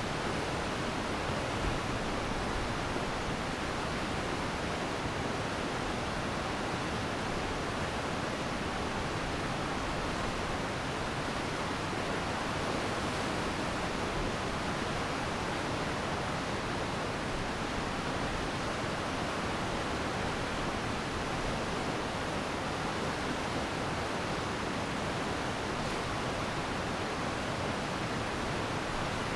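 Glacier meltwater stream rushing, a steady even wash of flowing water.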